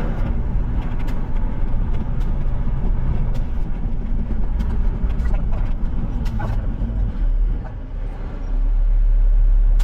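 Garbage truck running down the road, its engine and road noise heard from inside the cab as a steady low rumble with scattered rattles; the rumble dips briefly and then swells to a deep hum near the end.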